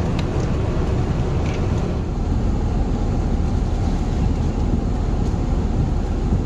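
Steady low rumble of cabin noise inside an Airbus A380 in cruise, made up of engine and airflow noise.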